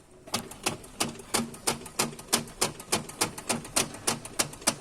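A dual-mass flywheel knocking in a rapid, even series of sharp clacks, several a second, as the engine is rocked back and forth by hand with a tool on the crankshaft pulley. The mechanic takes this knock for a broken dual-mass flywheel whose springs have play.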